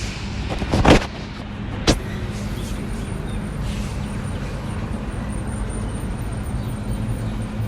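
A motor vehicle's engine running steadily with a low hum, with two sharp knocks about one and two seconds in.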